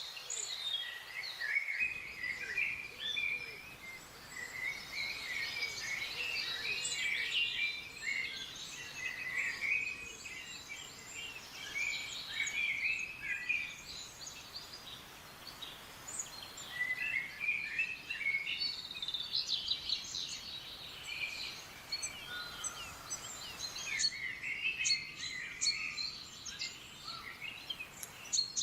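Several small forest birds chirping and twittering in quick, overlapping calls, thinning out briefly around the middle, over a faint steady background hiss.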